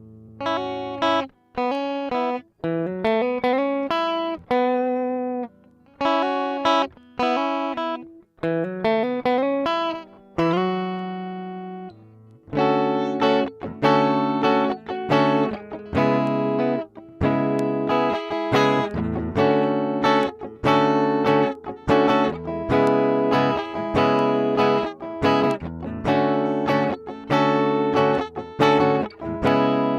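Squier Bullet Mustang electric guitar played clean with no effects, both pickups on in the middle selector position: single-note lines with slides for about the first half, then a steady rhythm of strummed chords.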